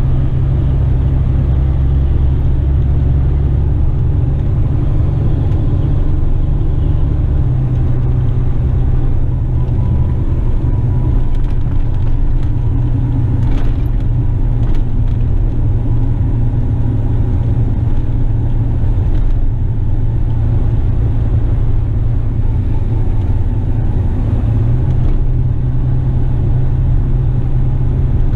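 Western Star tipper truck's diesel engine running under way, a loud, steady low rumble that shifts in pitch about seven seconds in.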